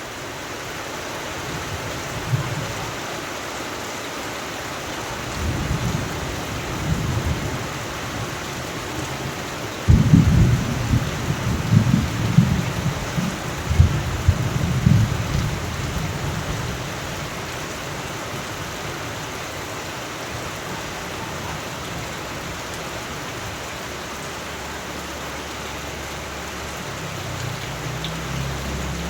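Steady rain with thunder rolling over it: low rumbles a couple of seconds in and around six seconds, a loud rolling peal starting about ten seconds in and lasting several seconds, and a softer rumble near the end.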